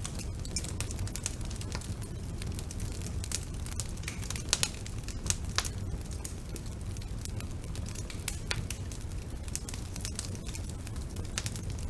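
Wood fire burning in a fireplace: a steady low rumble of flames with irregular sharp crackles and pops, the loudest pops about halfway through.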